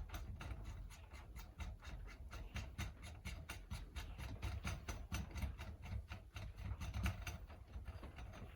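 A nut being run down a steel cylinder stud by hand, with rapid light metallic clicking, several clicks a second, throughout.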